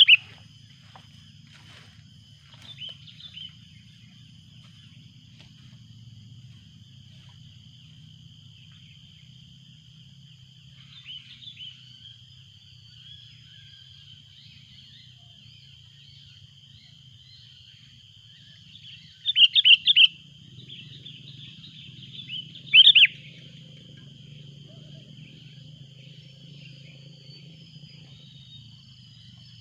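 Sooty-headed bulbuls calling in short bursts, loudest as four quick sharp notes about two-thirds of the way through and a single note a few seconds later, over a steady high whine and a low rumble.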